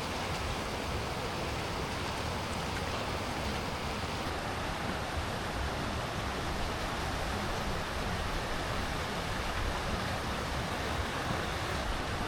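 Steady rushing of flowing water, a continuous even wash with no distinct splashes or calls standing out.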